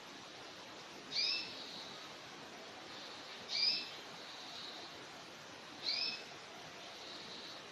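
A bird calling: a short, high call repeated three times, about every two and a quarter seconds, each followed by a fainter, trailing note.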